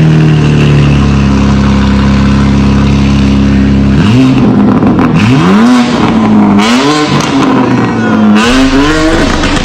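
BMW M4 CS twin-turbo inline-six being revved: held at a steady high rev for about four seconds, then blipped up and down about five or six times in quick succession.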